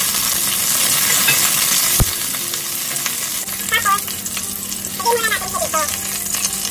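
Bell pepper pieces sizzling as they fry in olive oil in a wok, with a spatula stirring and scraping them and a few short squeaks against the pan. One sharp knock about two seconds in.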